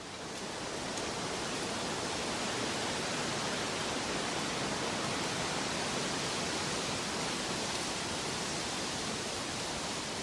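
Steady, even rushing of water with no pattern or rhythm. It fades in over about the first second, then holds level.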